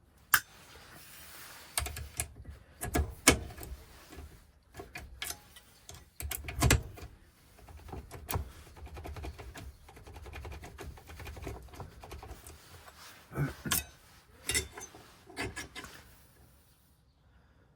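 Irregular sharp metal clicks and clinks with a few duller knocks: keys and lock parts being handled and worked at a workbench.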